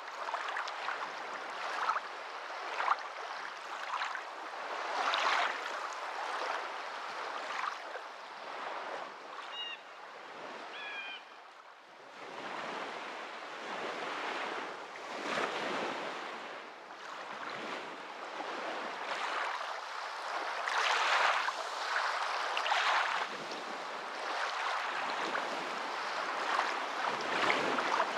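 Water washing and splashing in uneven surges, like small waves lapping.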